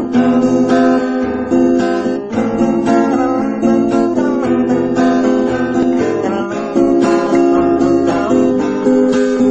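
Acoustic guitar being strummed in a steady rhythm, playing chords.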